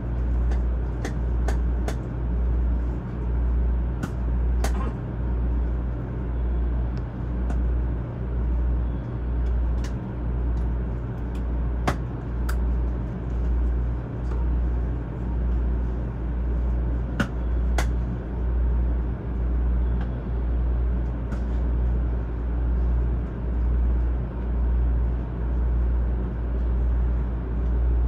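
Low steady hum of a stopped 500 series Shinkansen's onboard equipment, heard from inside the car, swelling and fading about once a second. A few faint clicks are scattered through it.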